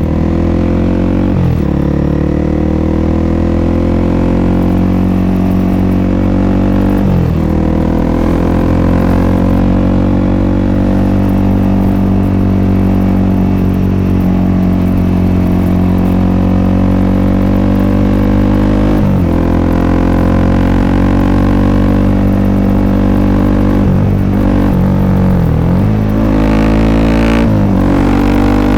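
A Honda CRF300L's single-cylinder engine running through an FMF Q4-style aftermarket exhaust while riding. The engine note climbs slowly and dips sharply about five times, with no break in the running.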